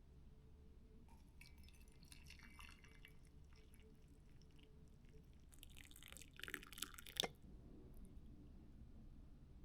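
Near silence, with faint scattered clicks and rustles and a brief cluster of louder handling noise ending in one sharp click about seven seconds in.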